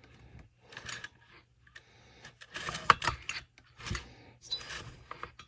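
Irregular clicks and rattles of small tools and parts being handled on a workbench, with one sharp click about three seconds in.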